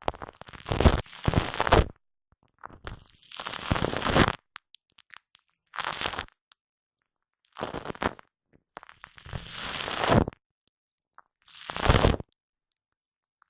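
Shaving foam squished and rubbed against a Blue Yeti microphone, close up and sticky, in six separate bursts with short silences between. Some bursts last a second or two, others only about half a second.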